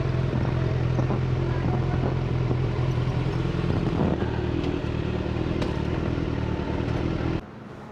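Motorcycle engine running at a steady, even note while riding. Its sound drops off abruptly near the end, leaving a much quieter background.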